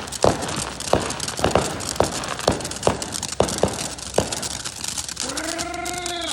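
Irregular sharp crackling pops from a lit consumer firework, about two or three a second, with a short wavering tone near the end.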